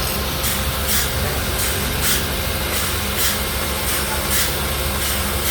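Band sawmill cutting through a large log: a steady low hum from the mill's drive under the hiss of the band blade in the wood, the hiss pulsing about twice a second.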